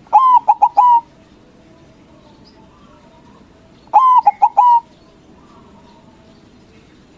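White zebra dove (perkutut) cooing its song twice, each phrase under a second long: a long opening note followed by three quick short notes.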